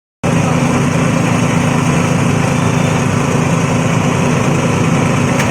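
Multipurpose forage chopper machine running steadily under its engine, cutting in abruptly about a quarter second in.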